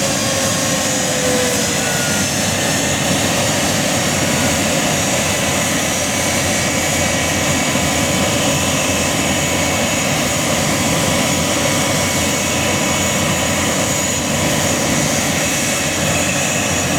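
BAC One-Eleven's Rolls-Royce Spey turbofan engines running steadily after start: a loud, even rush of noise with several steady whining tones, and a couple of tones sliding down right at the start.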